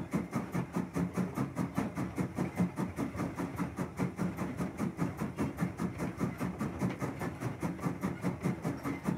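Train running on rails: a steady clickety-clack in a quick, even rhythm over a low hum.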